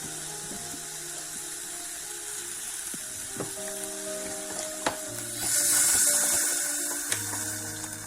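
Chicken and vegetables sizzling in a hot pot, with sharp taps from a utensil on the pot now and then. About five and a half seconds in, a louder hiss swells for about a second and a half.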